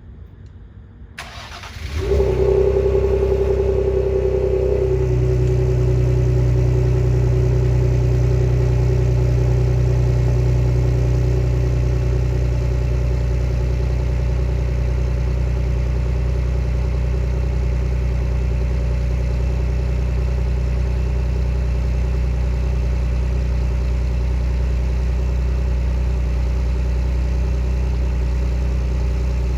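Cold start of a 2020 Ford Explorer through a Gibson axle-back exhaust. The engine is cranked and catches about two seconds in and runs at a fast idle. About five seconds in its note changes and it settles into a steady idle.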